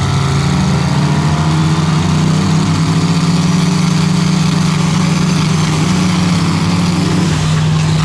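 Drag-racing trucks' engines running hard at high revs: a loud, steady engine drone that barely changes pitch and eases slightly near the end.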